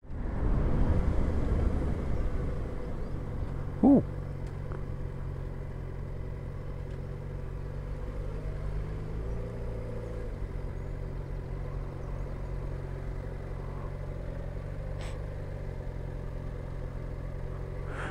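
Motorcycle engine running along at a steady speed, with wind and road noise. It is louder for the first couple of seconds, then settles to an even note that shifts a little in pitch.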